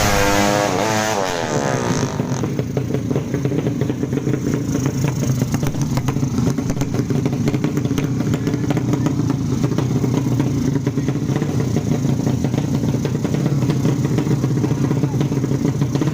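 Motorcycle engines, the 155 cc drag-race class, whose pitch falls over the first two seconds. After that an engine runs steadily with a fast, rattly beat.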